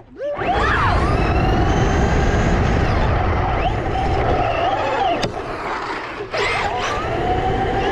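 Electric RC car motor whining, rising and falling in pitch as the car speeds up and slows, over a steady low rumble.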